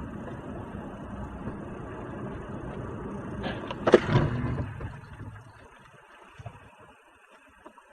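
Low, steady rumble of a car on the road, picked up by a dash camera, with a sharp knock about four seconds in. Then it fades to a faint sound.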